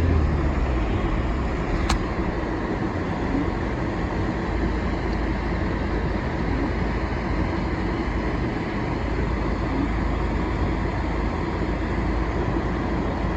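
Steady rumble of a vehicle driving on a snow-covered road, heard from inside the cabin: engine and tyre noise. There is a single sharp click about two seconds in.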